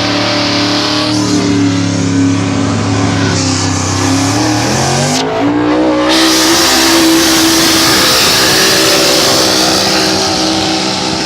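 Competition pulling truck's engine running hard under load, holding a steady pitch, then climbing in pitch about five seconds in and holding there.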